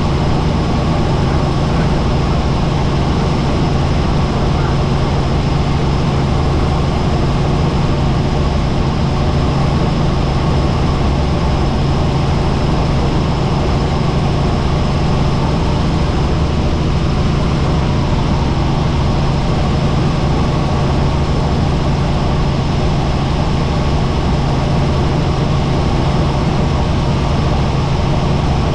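Helicopter in flight heard on board: a steady, loud drone of engine and rotor, with a thin steady high tone above it.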